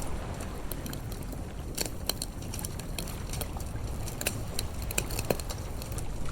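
Wood campfire crackling, with irregular sharp pops and snaps scattered through, over a steady low rumble.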